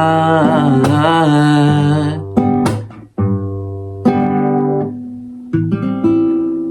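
Acoustic guitar playing a song's closing chords: several chords are struck a second or so apart and left to ring and fade. In the first two seconds a voice holds a sung note with vibrato over the guitar.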